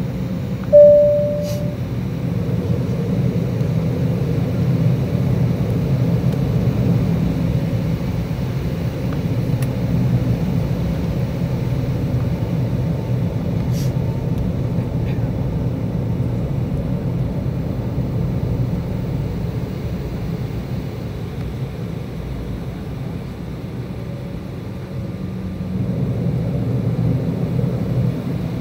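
A single chime tone about a second in, then the steady low hum of the Embraer E190's jet engines and cabin air, heard from inside the cabin and getting a little louder near the end.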